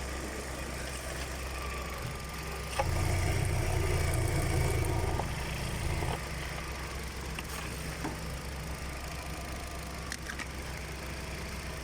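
Opel Astra H's 1.6-litre Z16XER four-cylinder petrol engine running at idle. It gets louder for about three seconds, a few seconds in, then settles back to a steady idle.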